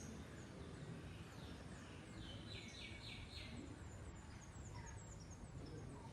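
Birds chirping and calling over a low steady background rumble. About two seconds in, one bird gives a run of about four quick repeated notes, followed by short falling chirps.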